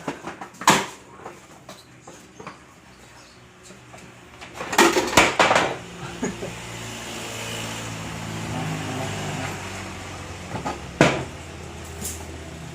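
Hard plastic knocks and clacks as the espresso machine's water tank is set on top and fitted into place: one knock near the start and a quick cluster about five seconds in. After that a steady low hum runs underneath.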